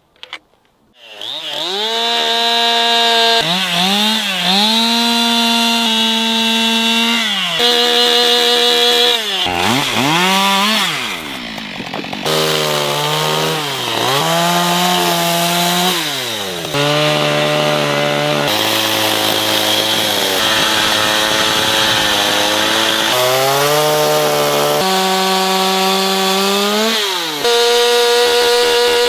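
Chainsaw carving wood. It starts up about a second in, then revs up and holds at high speed while cutting, dropping back toward idle between cuts, again and again.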